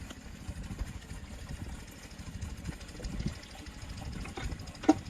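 Small diesel pump-set engine being hand-cranked, giving a low, uneven thumping, with one sharp click near the end.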